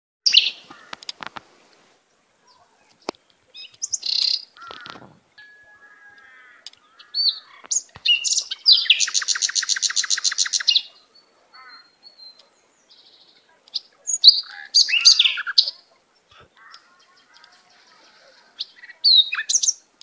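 Songbirds chirping and calling in short bursts with quiet gaps between, including a fast, evenly repeated trill of about two seconds near the middle.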